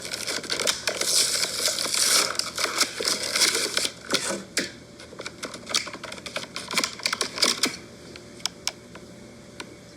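Plastic blister packaging of boxed diecast toy cars being handled: a dense crinkling rustle for about four seconds, then scattered sharp clicks and taps that thin out near the end.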